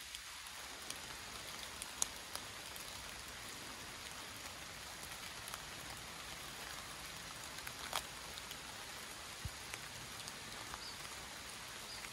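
Steady rain falling on forest foliage, with a scattering of sharper single drop ticks, two of them louder, about 2 and 8 seconds in.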